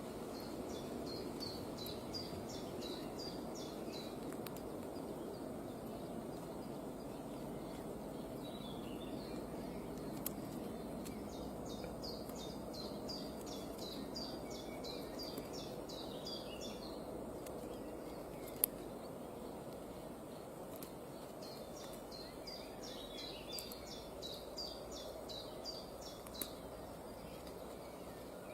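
A bird calling in three bouts of rapid, repeated high chirps: near the start, in the middle and near the end. Under the calls runs a steady low background noise.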